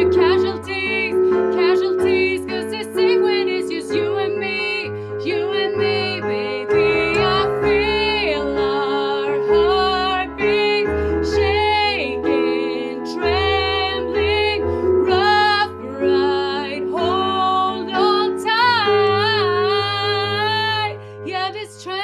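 Piano playing sustained chords with a moving bass line, under a solo voice singing long, wavering notes with vibrato, probably wordless.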